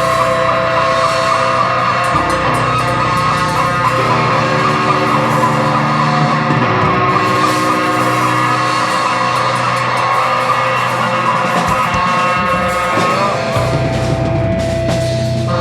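Live rock band playing with loud electric guitars, and yelled vocals over the music.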